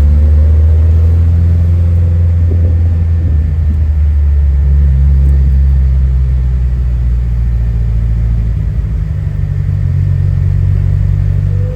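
Classic Ferrari's engine running under way as the car drives, a loud steady low drone that changes note and turns rougher about two-thirds of the way through.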